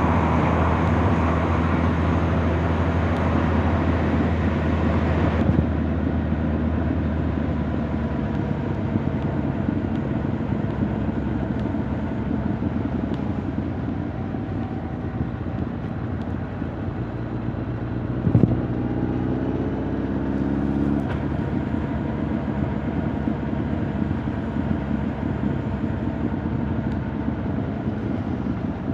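Honda CB1300 Super Bol d'Or's inline-four engine and exhaust running while riding. It is steady and strongest for the first five seconds, then eases off. About two-thirds through, a sharp click is followed by the engine note rising in pitch for a couple of seconds before it levels out.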